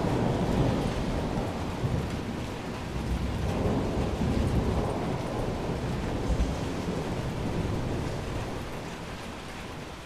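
Rolling thunder rumbling over steady rain, fading gradually away over the last few seconds.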